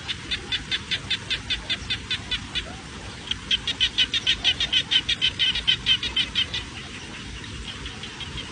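A bird calling in long runs of short, repeated chirps, about five a second. After a brief pause the chirps come faster and louder, then fainter near the end.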